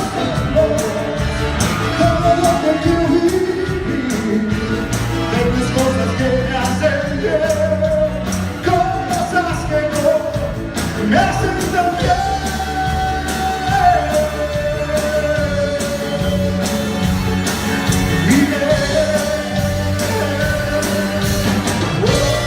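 Live cumbia band playing with singing over a steady beat and bass line, in a large hall.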